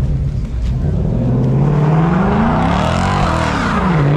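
Car engine revving hard, its pitch climbing over the first two seconds, wavering, then dropping briefly near the end before climbing again: a car being driven in spins.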